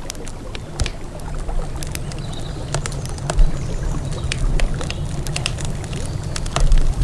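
Campfire burning, the wood crackling and popping in irregular sharp snaps several times a second, over a low steady rumble.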